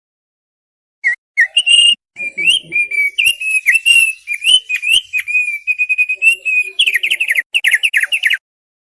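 Thick-billed heleia (opior paruh tebal) singing: a rapid, varied phrase of high whistled notes that bend up and down, ending in a quick series of falling notes that stops abruptly.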